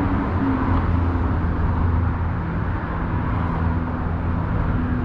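Steady road traffic: a low drone of vehicle engines and tyres with a few held hum tones.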